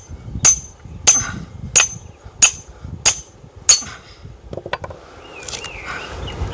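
Six quick, evenly spaced blows of metal on metal while splitting firewood, about one every two-thirds of a second, each with a short high ring, as a knotty log is worked. From about four and a half seconds in come a few lighter knocks.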